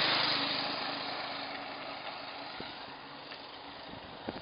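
Small engine vehicle passing close by, loudest at first and then fading away, over wind noise on the microphone.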